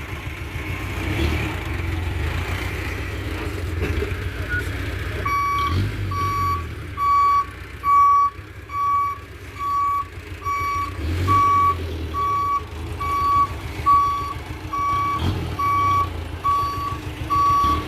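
Dump truck's reversing alarm beeping in an even, high single tone a little more than once a second over the truck's running engine. The beeping is absent for about the first five seconds, then starts and keeps going.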